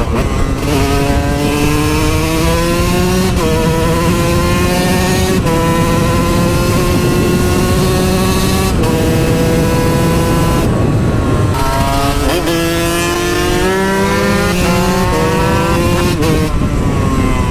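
KTM SMR 125 supermoto's single-cylinder engine pulling hard, its pitch climbing and dropping at each upshift several times. It eases off about eleven seconds in, then pulls up through the gears again.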